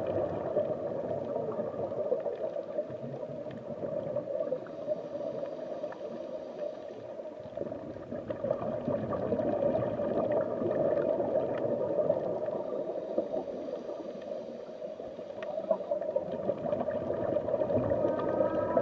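Underwater sound of a scuba dive: a steady watery rush with bubbling from the diver's breathing, with a faint hiss twice, about five and thirteen seconds in.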